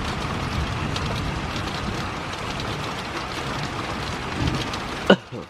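Heavy rain falling steadily, with a low rumble underneath. Near the end there is one sharp cough, and then the rain sound drops away.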